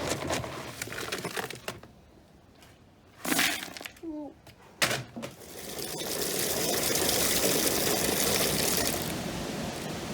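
Water running strongly for several seconds, building up and easing off near the end. Before it come a few clicks and a loud knock.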